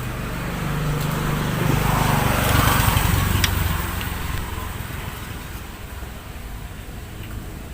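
A motor vehicle's engine passing by. It grows louder to a peak about two to three seconds in, then fades away.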